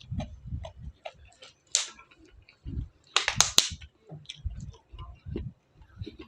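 Close-up eating sounds: chewing and lip smacking with small clicks, broken by sharp crunches, loudest in a quick cluster about three seconds in, as of crispy fried food being bitten.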